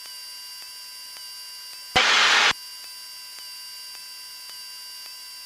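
Aircraft intercom and radio feed in a Cessna 172M: a steady electrical hum with faint whining tones and light ticks. About two seconds in, a half-second burst of hiss cuts in and stops as a microphone opens.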